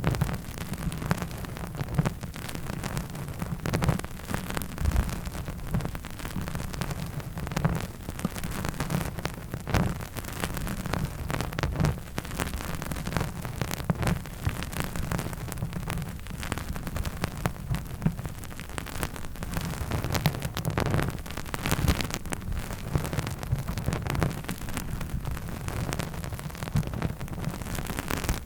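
Close-miked ASMR trigger sounds: a dense, irregular patter of small taps and crackles over a heavy low rumble, without pause.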